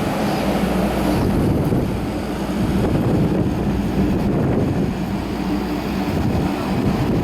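Wind buffeting the microphone: a steady, loud low rumble that rises and falls.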